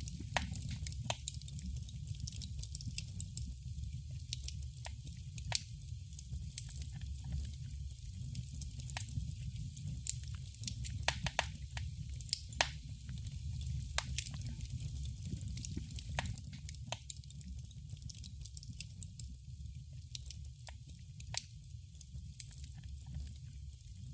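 Wood fire crackling in a fireplace: irregular sharp pops and snaps, several a second at times, over a steady low rumble of the flames.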